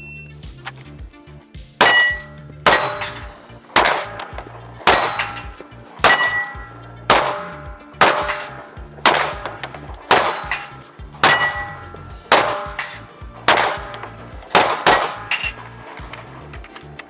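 A string of about fifteen gunshots, each one followed by the ring of a struck steel target, roughly one a second, as a shooter works through a plate rack and steel targets.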